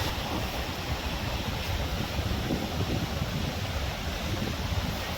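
Wind gusting on the microphone over a steady rushing roar.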